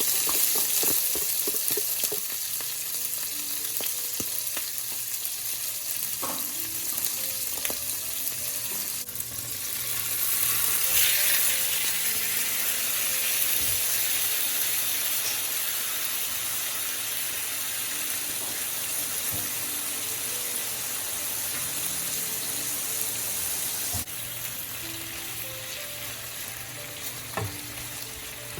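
Food frying in hot oil in a pan, a steady sizzle that swells about ten seconds in and eases a little near the end, with a few light clicks.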